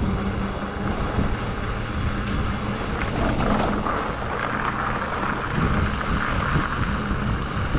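Wind rushing over the camera microphone during an e-bike ride, a steady rumble with tyre and road noise beneath it.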